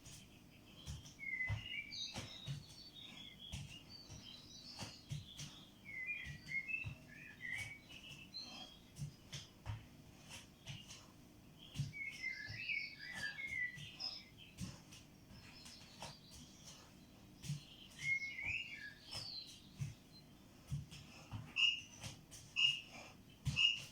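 A bird chirping and twittering in short bursts every few seconds, with three evenly spaced single notes near the end. Soft low thuds come through underneath at irregular intervals.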